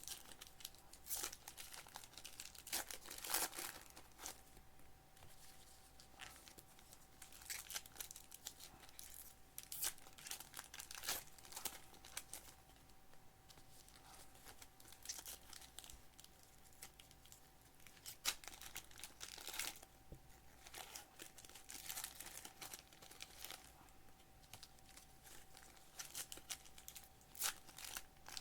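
Panini Revolution trading-card packs being torn open, their wrappers crinkling and tearing in irregular bursts. The wrappers are stubborn and hard to rip.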